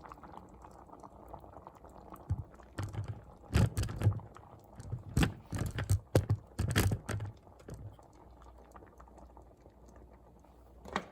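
Heavy cream being added to a pot of soup, with a string of irregular clicks and knocks from the cup and pot being handled between about two and seven and a half seconds in, over faint liquid sounds.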